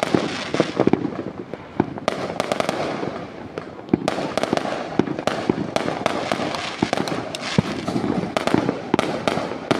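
Fireworks going off: many sharp bangs in quick, irregular succession over a continuous dense crackle of overlapping bursts.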